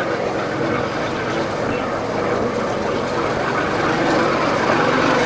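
Royal Enfield Bullet motorcycle on the move, its single-cylinder engine running steadily under road noise, growing a little louder near the end.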